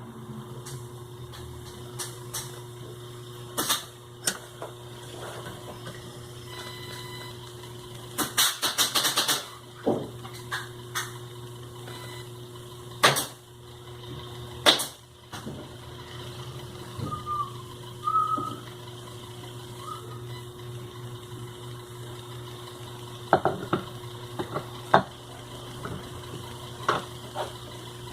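Scattered sharp clicks and knocks of metal tools and sewing-machine parts being handled, over a steady low hum, with a quick rattling run of clicks about eight seconds in.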